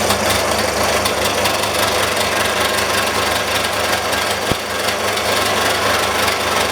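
Electric belt sander running steadily at speed, its belt and both rollers spinning freely now that the loose roller screws have been tightened. One brief click about four and a half seconds in.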